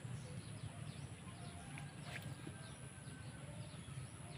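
Birds calling in many short, falling chirps over a low steady rumble, with a single sharp click about two seconds in.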